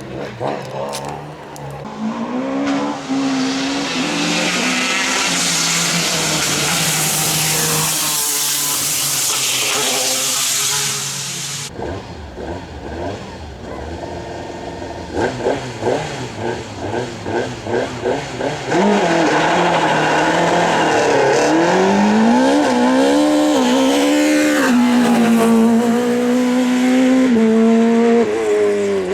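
Rally car engines at full power, revving up and dropping back through gear changes and corners. About twelve seconds in the sound changes abruptly to another car, which pops and splutters off the throttle before revving hard through a run of bends.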